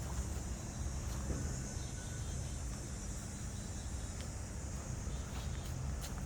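Steady high-pitched chorus of insects, such as crickets, over a continuous low rumble, with a few faint ticks.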